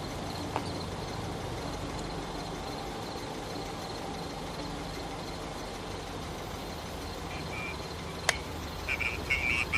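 Night outdoor ambience beside a railroad line: a steady low rumble with a faint, fast pulsing high tone. About eight seconds in there is a sharp click, then loud irregular chirping calls start and a low hum begins to swell.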